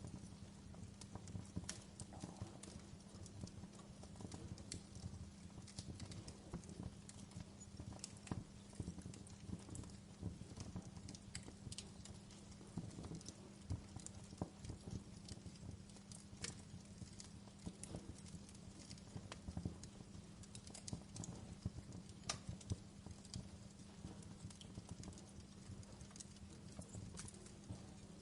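Wood fire burning in a fireplace, crackling with irregular sharp snaps and pops over a low, steady hum.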